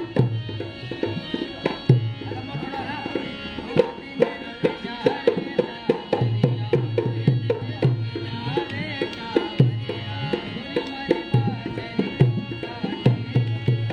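Indian folk music: a hand drum played in a quick, steady rhythm, with a sustained melody line over it.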